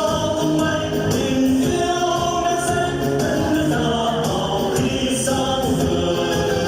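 Group of voices singing a song over instrumental accompaniment, with held, steady notes.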